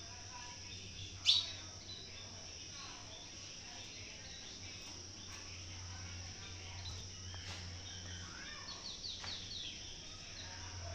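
Pet parrots calling: one sharp, loud squawk about a second in, then a quick run of short chirps near the end, over a steady low hum.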